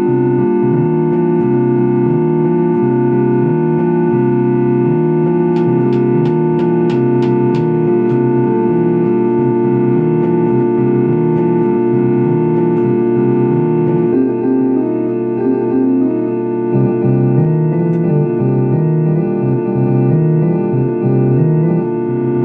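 Electric organ playing held chords over a bass line that steps between notes. A quick run of about seven sharp clicks comes a few seconds in.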